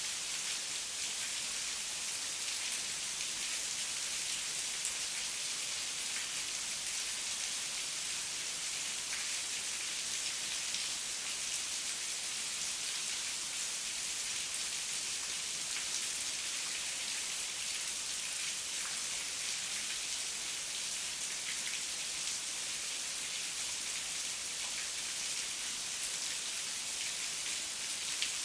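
Heavy rain falling steadily, a dense even hiss with scattered drops ticking.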